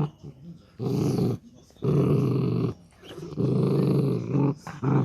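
Miniature dachshund growling in a series of about four low growls, each about a second long with short pauses between. It is guarding the toy it has been suckling on while its owner tries to take it.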